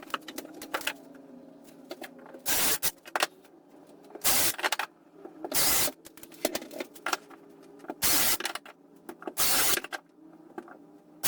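A power tool run in about six short bursts, each roughly half a second, with scattered clicks and knocks of handling between them.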